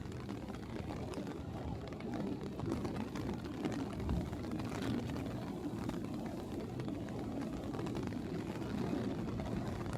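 City street ambience: a steady rumble of traffic with scattered small knocks and ticks.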